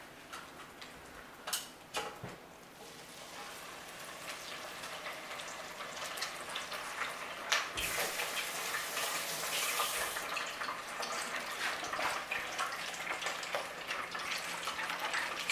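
Breaded cheese grits sizzling and crackling in a deep fryer's hot oil, the sizzle building over the first few seconds and then holding steady. Two sharp clicks come before it, in the first couple of seconds.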